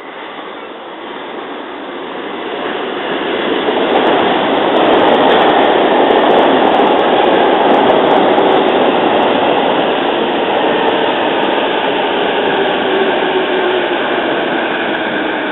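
Electric commuter train running past on the track, its wheel and running noise swelling over the first few seconds as it nears and then holding steady.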